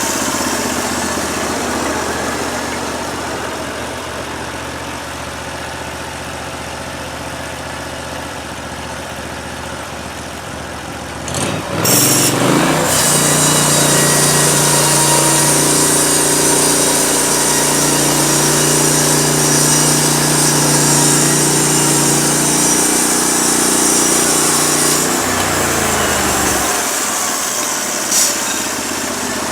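Norwood LumberMate LM29 band sawmill's petrol engine running at idle. About twelve seconds in it is throttled up, and the band blade runs at speed with a high hiss for about twelve seconds. It then drops back to idle.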